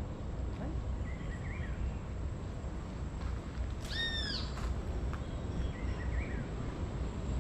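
Bird calls over a steady low rumble. One loud, arched call with a rise and fall comes about four seconds in, and fainter short chirps come before and after it.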